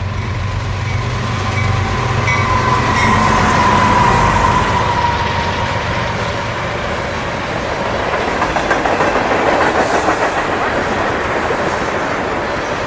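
CSX freight train rolling past close by. In the first few seconds there is a low drone and a slightly falling whine; after that the freight cars clatter by, a steady clickety-clack of wheels over the rail joints.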